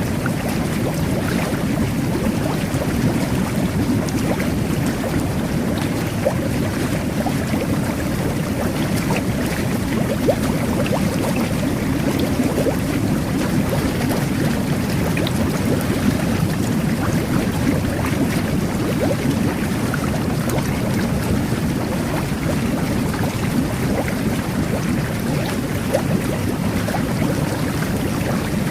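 Jet bath (jacuzzi) running, its jets churning the water in a steady bubbling rush with small pops scattered through.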